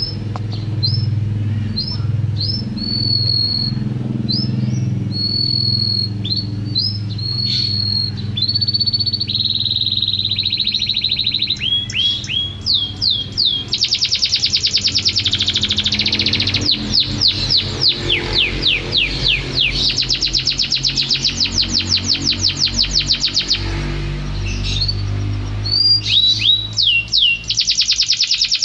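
Domestic canary singing: a series of short, clear whistled notes, then long, very fast rolling trills broken by brief pauses.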